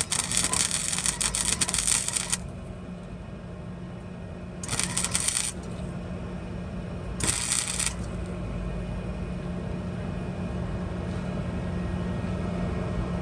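Welding arc crackling in three bursts, a long one of about two seconds and then two short ones, over a steady low hum.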